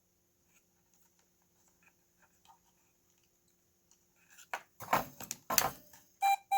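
Faint scattered clicks, then about four and a half seconds in a few loud crackly noise bursts, and near the end a short electronic beep from a Golden Big Bird Talking Bingo toy whose circuit is being probed for glitches.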